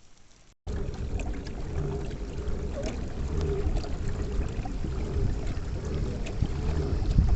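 Loud low rumble of water moving against a kayak close to the microphone, with small splashes and knocks. It starts abruptly about half a second in.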